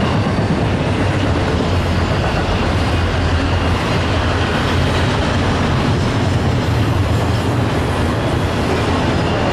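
Double-stack intermodal container train rolling past: the steady rumble of its well cars' wheels on the rails, loud and even throughout.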